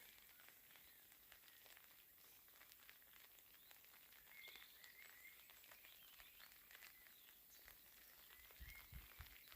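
Faint light rain pattering, with small birds giving short chirps from about the middle on. A few soft low thumps near the end.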